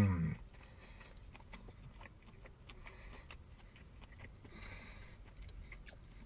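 A man's appreciative 'mmm' hum trails off in the first moment, then quiet chewing with faint mouth clicks. A short, soft breathy hiss comes about four and a half seconds in.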